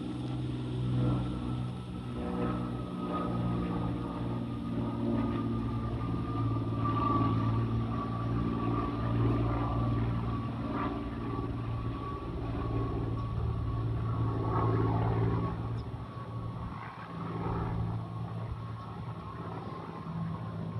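Plane passing overhead: steady engine rumble with a high whine that drifts slowly down in pitch.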